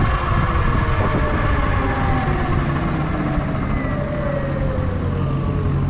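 Electric dirt bike motor whining, its pitch falling slowly and steadily as the bike slows, over a heavy low rumble.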